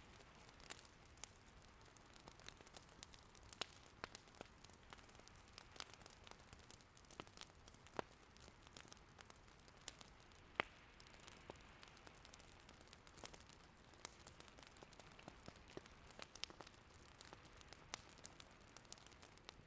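Firewood burning in an irori sunken hearth, crackling with irregular sharp pops, the loudest about eight and ten and a half seconds in, over a faint steady hiss of light rain.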